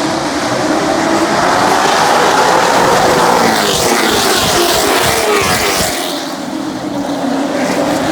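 Race car engines running at speed on the track, one or more cars sweeping past with the engine note rising as they approach and falling away as they go by, loudest in the middle; the engine drone of the field carries on behind.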